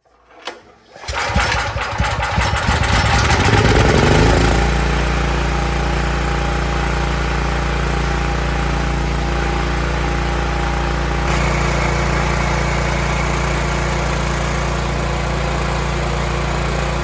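Troy-Bilt generator's small four-stroke engine, valves freshly adjusted, pull-started on full choke. It catches about a second in, revs up, and settles into a steady run after about four and a half seconds.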